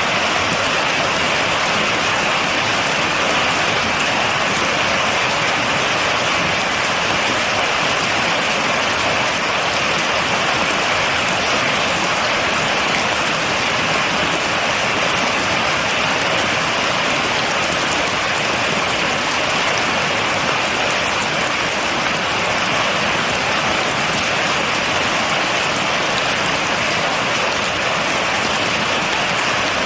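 Steady heavy rain falling, an even hiss with fine patter of drops and no thunder.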